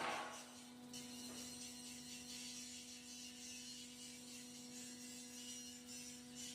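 Faint steady hum with a high hiss behind it, and a brief noisy burst right at the start.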